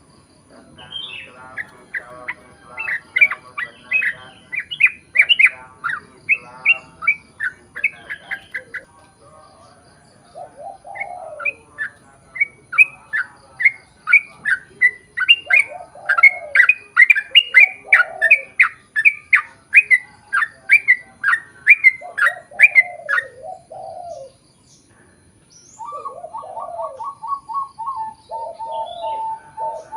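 Yellow-vented bulbul (trucukan) singing its long, rapid song: quick runs of repeated bubbling notes in two long bouts with a short pause between them. A lower, faster run of notes begins near the end.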